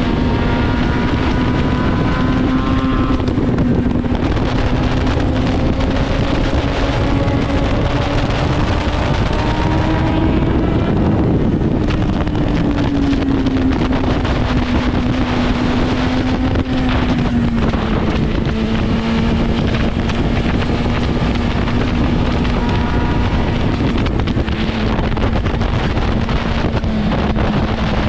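Inline-four superbike engine running at a steady cruise, its pitch rising briefly about ten seconds in and easing back, under heavy wind rush on the microphone.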